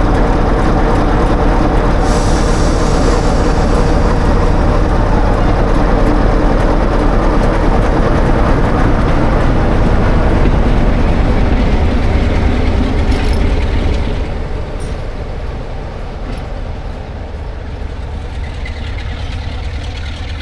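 Diesel train running past close by, its engine loud and steady, then dropping off about fourteen seconds in and fading as it moves away.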